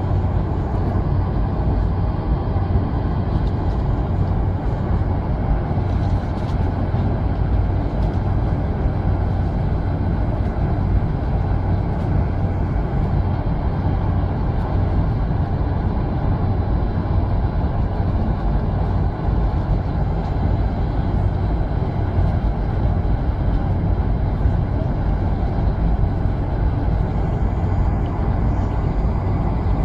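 Steady low rumble of a Saudia Boeing 747's engines and airflow heard from inside the passenger cabin.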